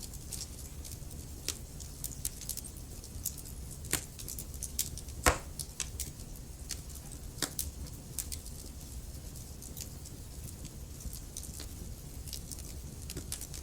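Wood fire burning in a fireplace: logs crackling and popping at irregular intervals over a low steady rumble of flame, with a few sharper pops around four and five seconds in.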